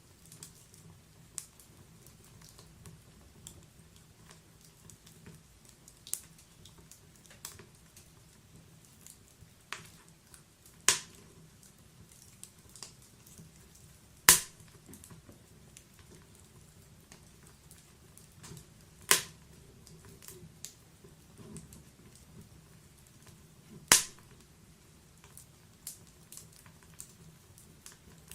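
Wood fire in a log-burning fireplace crackling: scattered sharp pops over a quiet low hiss, with four louder snaps spread through the stretch.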